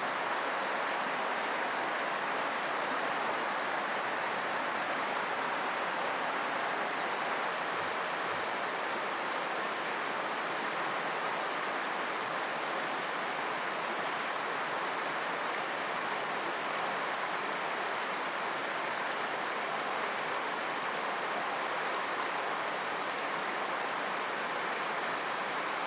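River water flowing, a steady, even rush of water.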